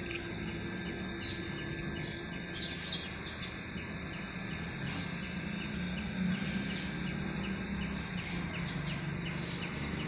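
Birds chirping in short, scattered calls over a steady outdoor background hiss, the loudest chirps coming about two and a half to three seconds in.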